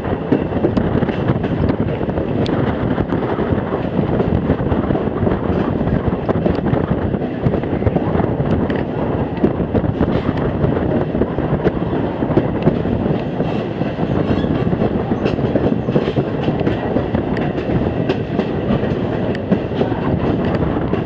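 Steady rumble and clatter of a moving passenger train's coach wheels running on the rails, with scattered clicks from the track.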